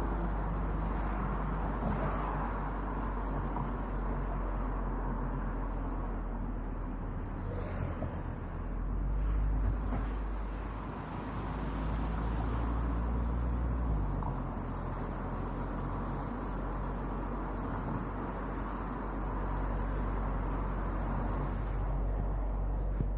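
Road noise picked up by a camera on a moving car's roof: a steady rumble of tyres, wind and traffic that swells twice in the middle, with a brief sharp sound a little before that.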